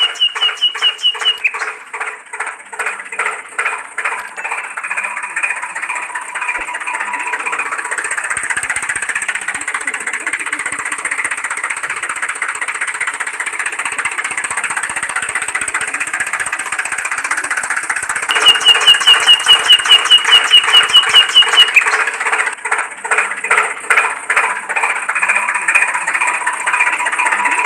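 Tractor engine chugging with a rapid knock a few times a second. Near the start and again about two-thirds through it gets louder, with a fast high-pitched beeping over it.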